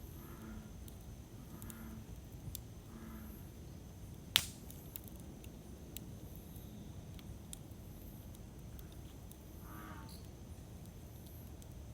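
Wood campfire crackling: scattered faint clicks over a low steady noise of the fire, with one sharp, loud pop about four seconds in.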